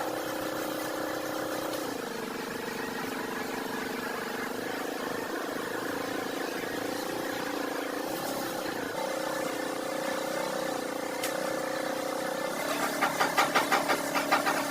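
Car engine running steadily, with its pitch shifting slightly a couple of times, then a quick run of loud pulses near the end.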